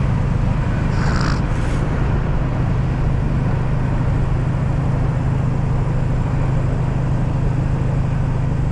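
A vehicle engine idling steadily, a low even hum, with a couple of light clinks about a second in.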